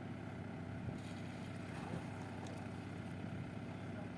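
Engine of heavy earthmoving machinery running steadily at a constant speed, a low even drone with a few faint ticks.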